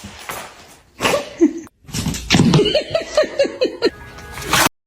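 A person laughing in a quick run of short ha-ha pulses, cut off abruptly near the end.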